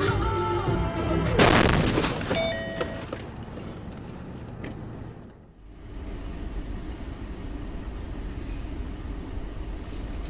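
Music breaks off into a single loud bang about a second and a half in, typical of a car crash impact, which fades over the next second or two. After a brief drop, steady road and engine noise from a moving vehicle follows.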